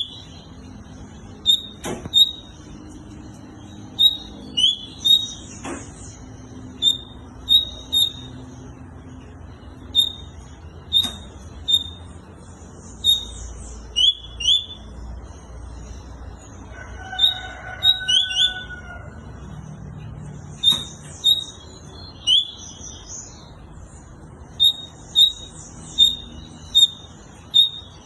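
Double-collared seedeater (coleiro / papa-capim) singing: short, sharp, high notes repeated in loose clusters with brief pauses between them.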